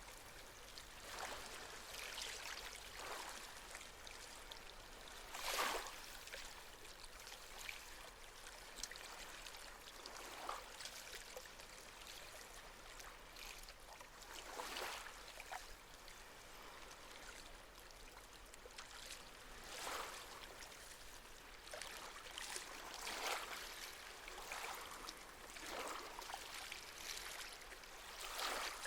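Gentle sea waves lapping and washing at the shore: a steady hiss of water with soft splashes every second or two, the strongest about six seconds in.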